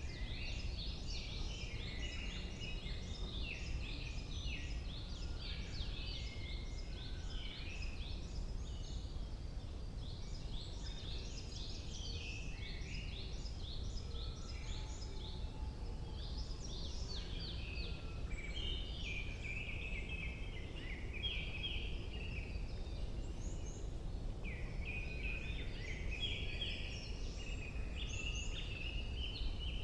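Many songbirds singing together in spring woodland, a dense chorus of overlapping chirps and trills, over a steady low rumble.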